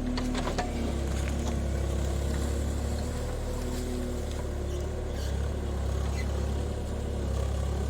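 JCB 30 Plus mini excavator's diesel engine running steadily, with a few clicks or knocks in the first second.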